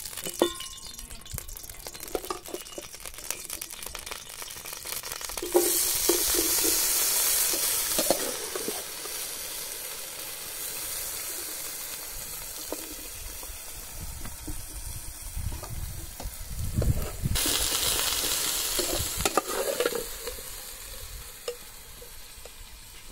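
Potato sticks frying in hot oil in a wide pan, a steady sizzle that surges loudly as fresh batches go into the oil about five seconds in and again about seventeen seconds in. Light knocks of a metal spoon against the pans come in between.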